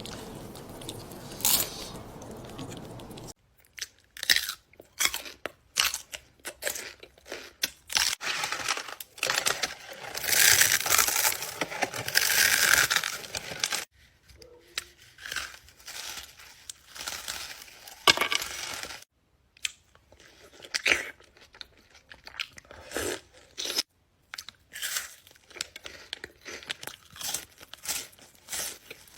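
Close-miked eating sounds: repeated crunchy bites and chewing of foods such as cucumber, Oreo cookies and waffles, in short sharp crackles. There is a denser, louder stretch near the middle, after a steady hiss in the first few seconds.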